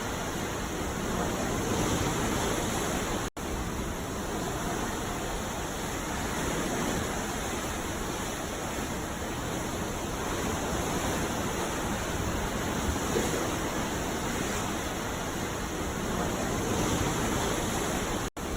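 Ocean surf at night: a steady, dense wash of breaking waves that swells gently every few seconds. It cuts out for an instant twice, about three seconds in and again near the end.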